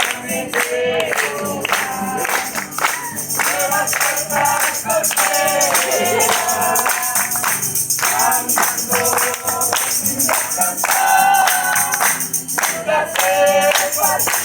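A group of voices singing a Spanish-language worship chorus together, with a steady percussion beat.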